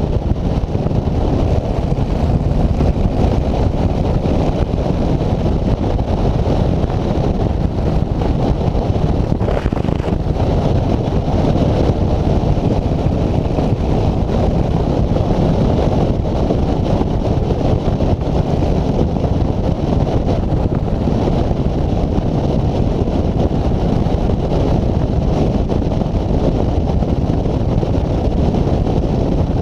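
Steady, loud wind buffeting the microphone during a ride, a heavy rumbling rush with no engine note standing out.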